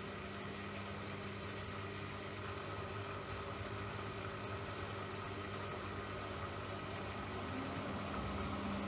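A steady mechanical hum: a low drone with a few fixed tones over an even hiss, growing slightly louder near the end.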